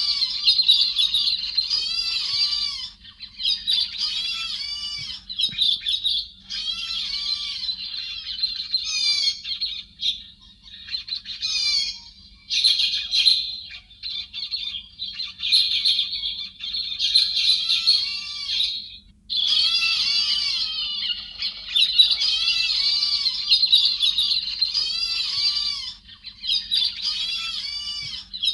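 Chim héc xoan thrushes calling in a dense chatter: quick, overlapping high calls in runs of a few seconds with brief pauses, a flock-call lure recording.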